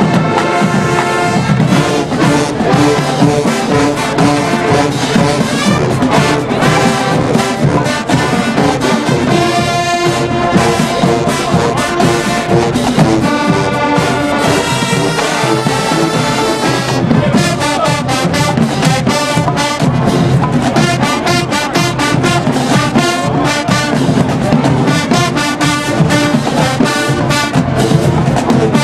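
College marching band's brass section playing a loud, full passage of chords, trombones and trumpets to the fore, with drum strokes driving it hardest in the second half.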